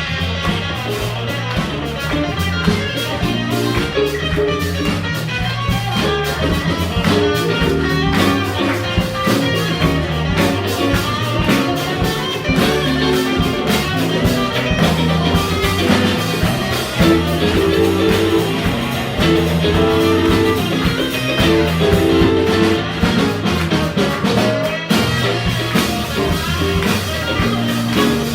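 Live funk band playing an instrumental groove: electric guitar, bass, keyboards and drum kit, steady and continuous.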